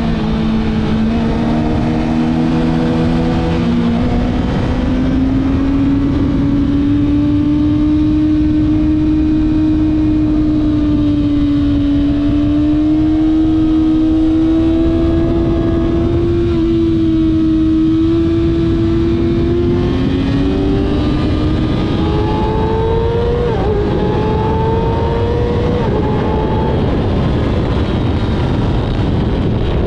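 Kawasaki ZX-6R inline-four engine running hard at speed, heard over heavy wind rush on the microphone. The engine pitch climbs slowly, sags, then climbs again, with a sudden brief drop and recovery about two-thirds of the way through.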